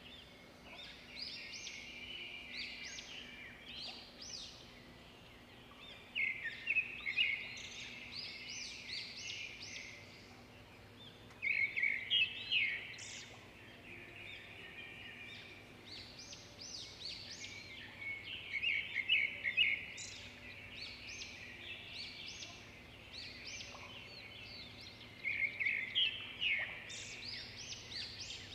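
Birds singing in scrub: a loud phrase of quick high notes comes about every six to seven seconds, with quieter chirping in between.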